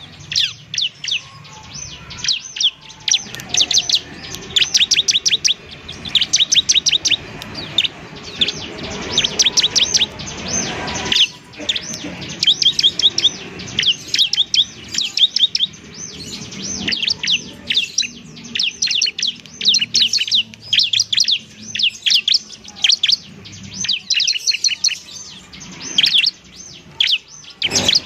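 Bar-winged prinia (ciblek) singing: fast runs of sharp, high chirps delivered in quick bursts, one after another with short breaks.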